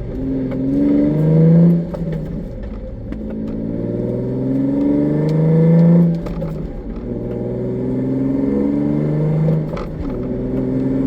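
Nissan 350Z's 3.5-litre V6 pulling hard under acceleration, rising in pitch through each gear. It drops sharply three times, about two, six and ten seconds in, as the car shifts up.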